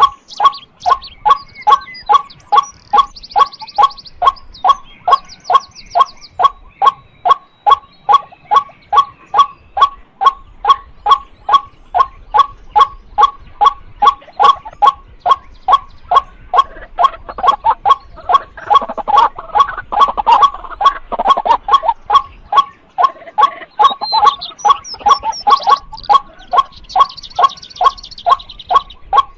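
White-breasted waterhen calling a loud, monotonous "kwak" over and over, about two calls a second at a steady pace: the repeated breeding-season call of the species.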